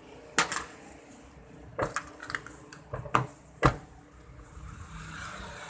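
A few separate sharp clicks and knocks, about four in three and a half seconds, followed by a faint steady noise.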